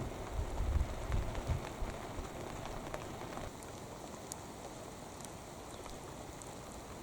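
Rain falling steadily, with scattered drops ticking. A low rumble under it fades out within the first two seconds.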